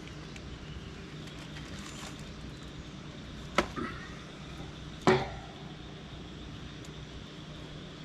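Two sharp knocks about a second and a half apart, the second louder, each with a short ringing tail, over a steady low background hum.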